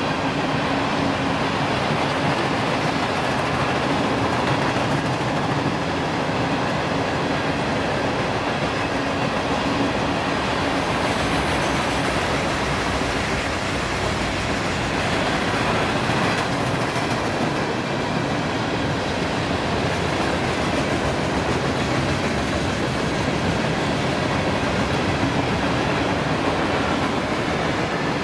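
A train rolling past on the track, a steady, unbroken noise of wheels on rail throughout.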